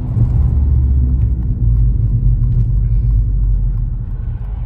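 Low in-cabin rumble of a Vauxhall Astra GSi on the move, engine and road noise together, easing off about four seconds in.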